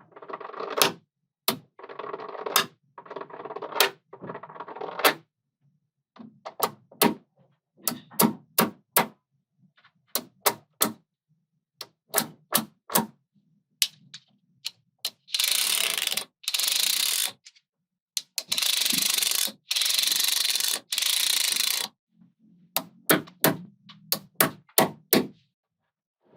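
Small magnetic balls clicking and snapping together as they are handled and assembled: many sharp separate clicks, with two stretches of several seconds of dense rattling from the balls shifting against each other about halfway through.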